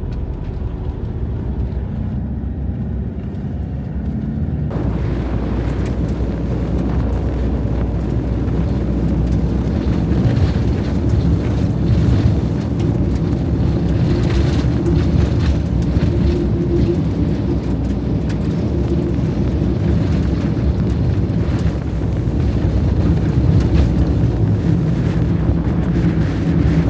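Vehicle running amid strong wind: a steady low rumble with wind noise. A music bed ends abruptly about five seconds in.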